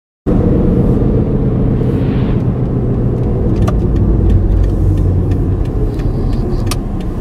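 Moving car, a steady low engine and road rumble, with a few faint clicks.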